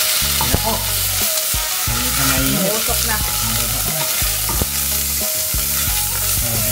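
Garlic, onion and Thai green curry paste sizzling in hot oil in a stainless steel pot, stirred with a wooden spoon, with a few light knocks of the spoon against the pot.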